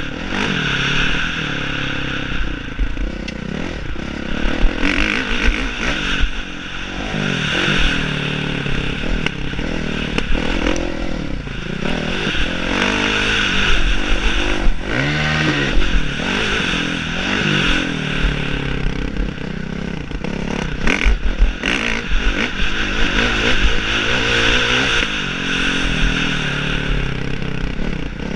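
Motocross bike engine revving up and down over and over, its pitch rising and falling every second or two, over a steady rough rattling noise.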